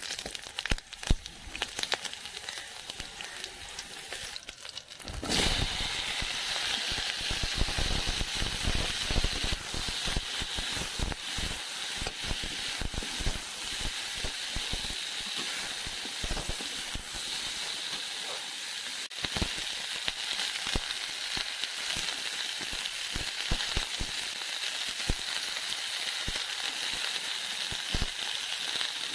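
Spice seeds and dried chillies spluttering in hot oil in an aluminium wok with sharp crackles. About five seconds in, green tomato wedges go in and the oil breaks into a louder, steady sizzle, with clicks and scrapes of a metal spatula stirring.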